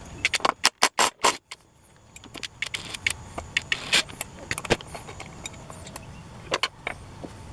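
Metal parts and tools clinking and knocking as a Husqvarna 61 chainsaw engine is taken apart by hand. A quick run of sharp knocks comes in the first second and a half, followed by scattered clicks.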